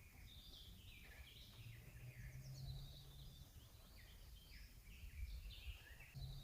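Several songbirds singing in a forest: faint, overlapping short chirping phrases at different pitches, with a low rumble underneath.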